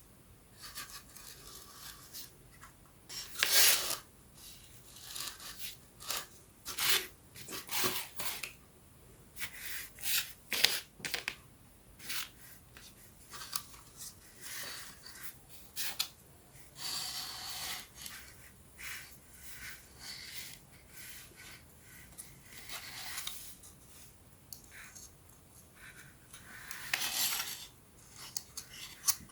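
Thin wooden pieces of a 3D wooden excavator puzzle being handled and fitted together by hand: irregular short rubs and scrapes, the loudest a little over three seconds in and again near the end.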